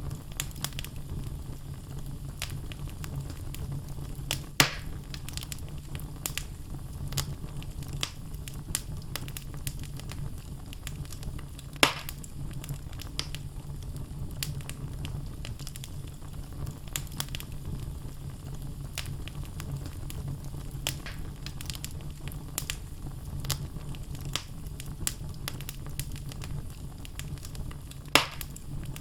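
Wood fire burning in a fireplace: the logs crackle with many small snaps over a low steady rumble, and three louder pops come about four seconds in, near the middle and near the end.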